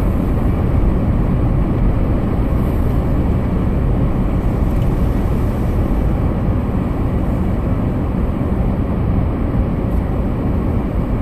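Steady low rumble of a Ford Fusion driving on a snow-covered road, heard from inside the cabin: engine and tyre noise.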